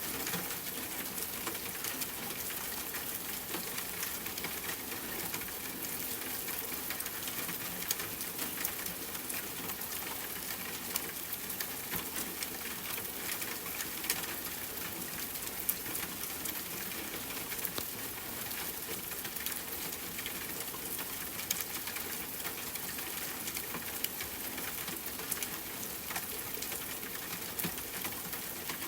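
Steady rainfall hiss mixed with a wood fire crackling, with sharp single pops every few seconds.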